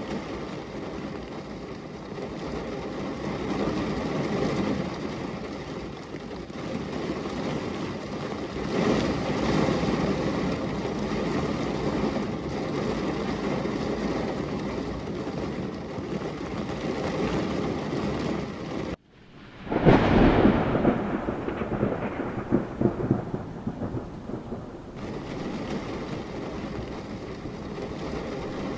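Steady rain with low rolling thunder. About nineteen seconds in, the sound cuts out for an instant, then a loud close thunderclap breaks and crackles for a few seconds before settling back into the rain.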